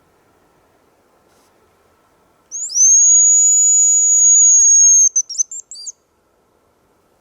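Hazel grouse decoy whistle blown close by, imitating the bird's whistled song: one long high whistle that rises at the start and holds steady for a couple of seconds, then breaks into a quick run of short trilled notes.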